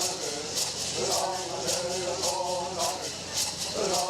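Bird song sung by voices in a chanting style over gourd rattles shaken on a steady beat, about two strokes a second.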